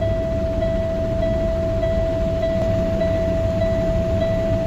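A garbage truck's dash warning buzzer sounding a steady high tone, with a slight pulse about every half second, over the low rumble of the idling diesel engine.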